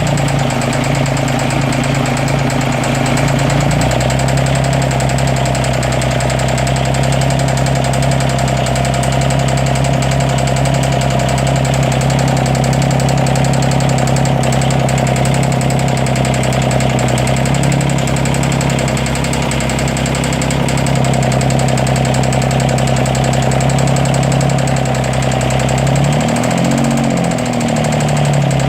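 Diesel engine of the 332 idling with an intermittent misfire and a loud clicking, which the owner takes for signs of a leaking head gasket among other faults. Its speed dips briefly and recovers near the end.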